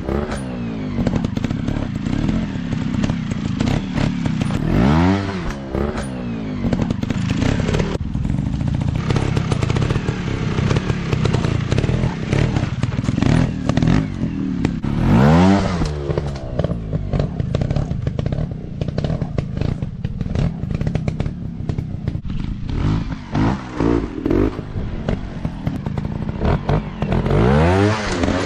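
Off-road dirt bike engines running and revving, the pitch rising sharply and falling back several times, with clattering knocks and thuds over the steady engine sound.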